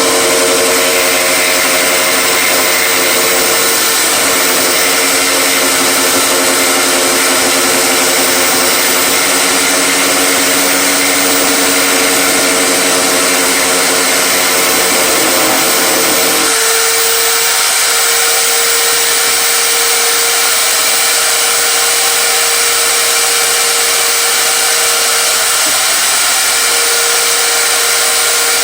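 An electric power tool's motor running steadily and loudly. About two-thirds of the way through its lower hum drops away, leaving one steady higher tone.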